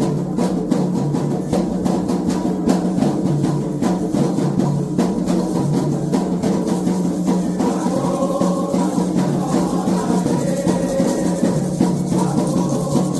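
Candomblé ritual drumming: atabaque hand drums playing a fast, steady rhythm of dense strokes.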